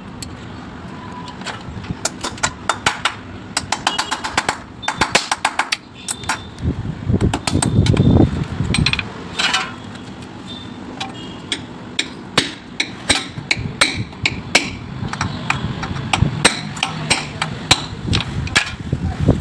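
Irregular knocks, taps and clicks of hand tools at work, many coming in quick runs, with a brief louder low rumble about eight seconds in.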